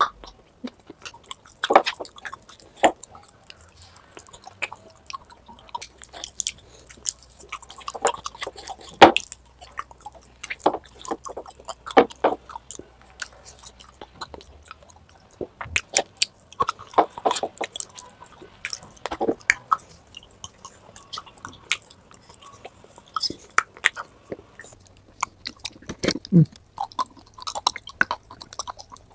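Close-miked chewing and biting of soft food, an irregular run of sharp wet mouth clicks with now and then a crunch.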